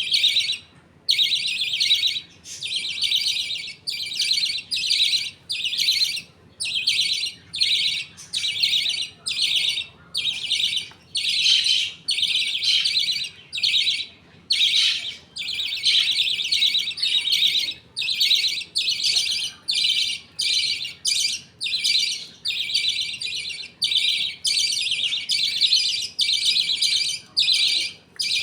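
Budgies chirping and chattering in short, high-pitched bursts with brief gaps between them, a little more than one burst a second.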